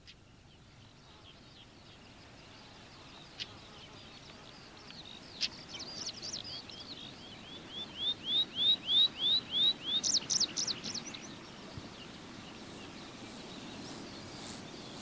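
A songbird singing over a faint outdoor hiss: a run of short whistled chirps that grows louder, about three notes a second, ending in a brief, quicker, higher trill.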